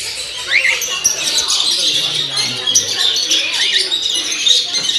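Dense chorus of many caged birds chirping and twittering at once, full of quick, sharp rising chirps, loud enough to drown out talking. Faint voices murmur underneath.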